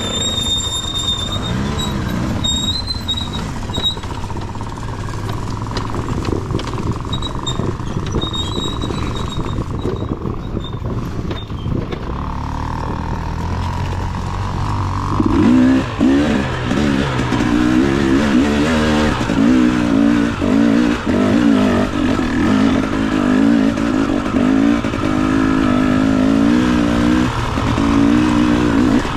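Dirt bike engine running under the rider, fairly even at first, then from about halfway through revving harder with the pitch rising and falling again and again as the throttle is worked on rough, rocky ground.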